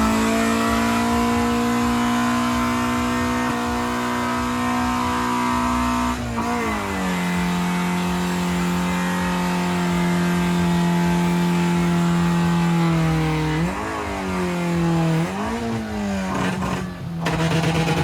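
Car engine held at steady high revs, then dropping to a lower steady pitch about six seconds in. Near the end the revs dip and climb back twice before falling again.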